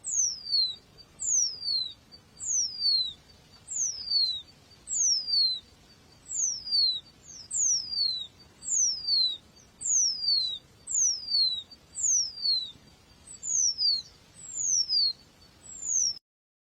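A small bird calling over and over, each call a high whistle sliding steeply down, about one call a second. The sound cuts off suddenly near the end.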